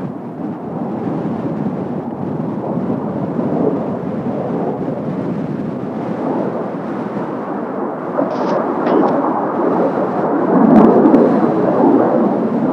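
Jet roar of Kawasaki T-4 jet trainers flying overhead, a continuous rumble that swells to its loudest about eleven seconds in as the aircraft pass.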